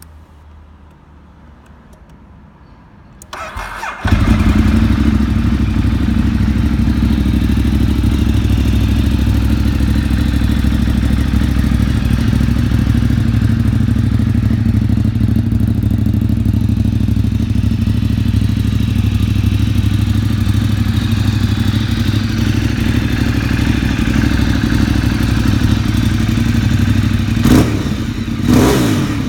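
Ducati 848's L-twin engine breathing through an Akrapovic exhaust, cranked by the starter about three seconds in and catching about a second later, then idling steadily. Near the end the throttle is blipped a few times.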